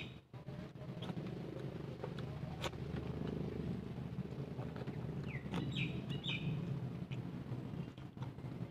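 Birds chirping a few short notes about five to six seconds in, over a steady low background hum, with a few faint clicks.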